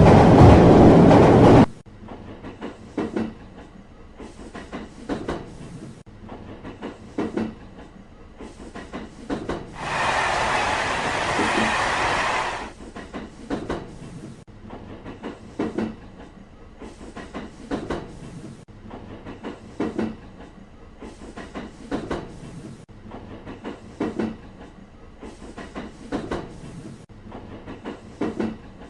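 Train wheels rolling over rail joints: a repeating clickety-clack, with a group of clicks about every two seconds. A loud rushing noise cuts off abruptly near the start, and a steady hiss lasts about two seconds midway through.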